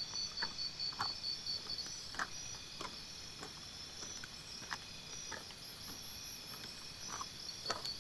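Crickets chirping in a rapid, even pulsing rhythm, high and fairly faint, with a few light ticks scattered through.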